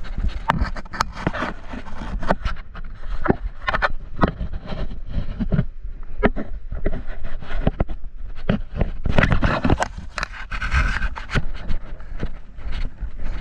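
Irregular knocks, clicks and scraping close to the microphone, with a denser run of knocks about nine seconds in.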